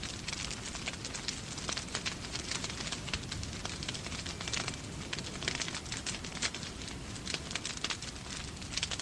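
Wood fire crackling in a fireplace, with frequent irregular sharp pops, over a steady low rumble and the hiss of rain.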